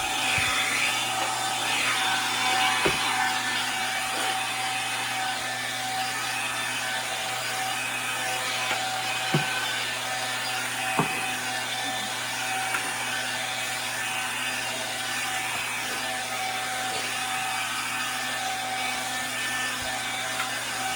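Swiffer Sweep and Vac cordless vacuum running with a steady motor whine as it is pushed back and forth over the floor. A few light knocks occur along the way.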